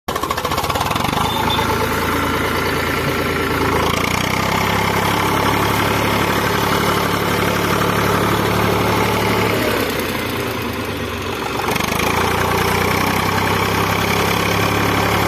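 Eicher 485 tractor's diesel engine running steadily, its pitch shifting up slightly a few seconds in, easing off briefly about two thirds through, then picking up again.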